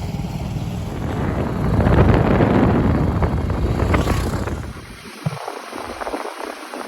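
Wind buffeting the microphone: a loud rumbling noise that eases off about five seconds in.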